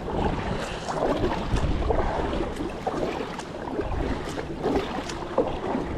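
Kayak paddle strokes dipping and splashing in the river, with wind buffeting the microphone.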